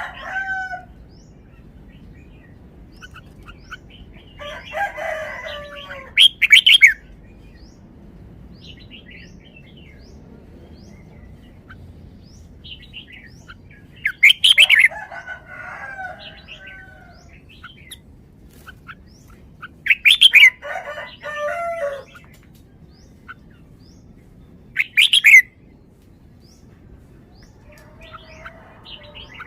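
Red-whiskered bulbul singing short, loud, warbling phrases, about five of them separated by pauses of several seconds.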